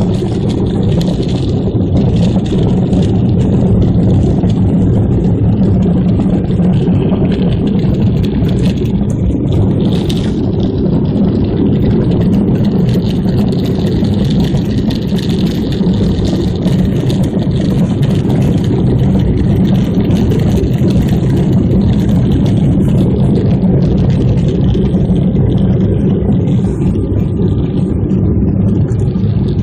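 Steady deep drone of an airliner's engines and airflow heard inside the cabin, even throughout with no breaks.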